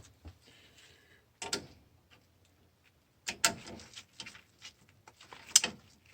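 A scatter of sharp clicks and knocks as small metal parts of a water feeder are handled and fitted during reassembly, the loudest about a second and a half in, around three and a half seconds in, and near the end.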